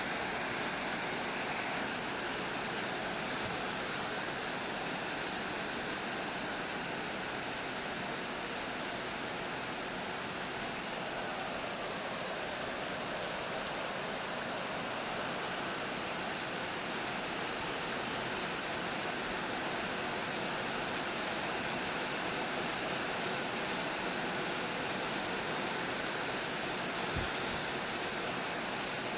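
Storm rain falling steadily, an even hiss with no let-up, and a single faint knock near the end.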